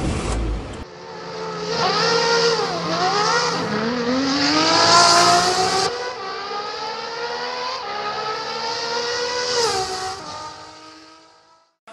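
Race-car engine sound effect: a short thump, then an engine revving, dipping and climbing in pitch as it accelerates, with a sharp change about six seconds in, before the pitch drops and it fades out near the end.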